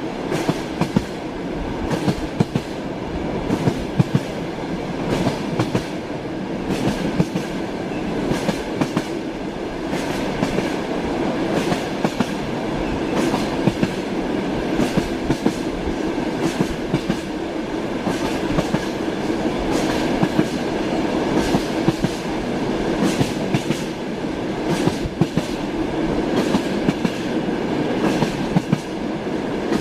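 Train wheels knocking over rail joints under a steady rumble of a moving railway carriage, with frequent sharp clacks at irregular spacing.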